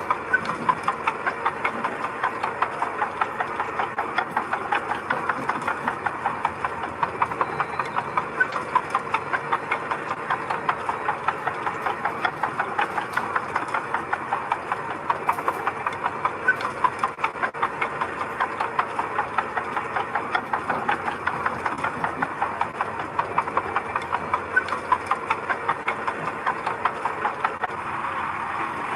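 Engine of a heavy construction machine running with a steady rhythmic clatter, about three pulses a second. Near the end the pulsing gives way to a smoother, steadier engine sound.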